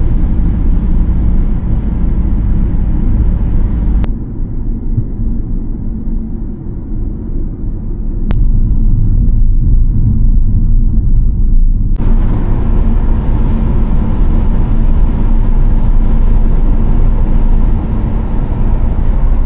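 Steady road and engine rumble heard inside a moving car's cabin. It turns quieter and duller for several seconds in the middle, then comes back to full strength, with a few sharp clicks where it changes.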